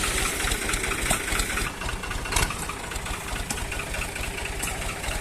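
Tractor diesel engine running steadily with an even low pulse, and a sharp click about two and a half seconds in.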